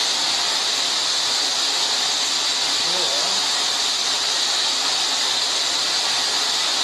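Steady, even spraying hiss like a jet of water or air, unchanging throughout.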